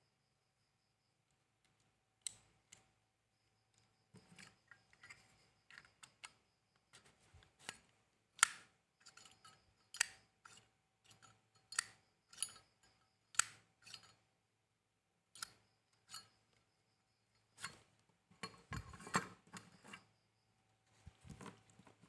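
Sharp metallic clicks and taps, irregular at one or two a second, with a denser clatter near the end: small metal parts of a Zippo lighter and its insert being handled and worked on during a cam spring repair.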